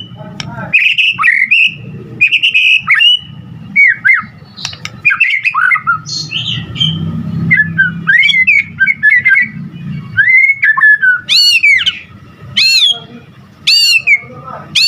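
White-rumped shama singing a varied run of loud whistled phrases, gliding notes and quick chirps. In the last few seconds these give way to a string of sharp down-slurred notes about one a second.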